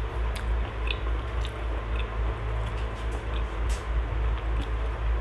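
A person chewing a mouthful of fried catfish and rice close to the microphone, with small wet mouth clicks, over a steady low hum.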